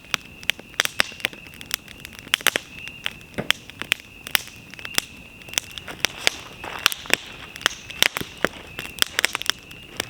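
Wood campfire crackling, with frequent irregular sharp pops. A steady high-pitched tone runs behind it.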